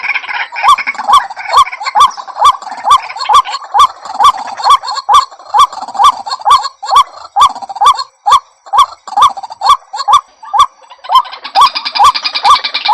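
White-breasted waterhen calling: a loud, steady run of short rising notes, about two a second, each with a sharp click. The calling becomes fuller and denser about eleven seconds in.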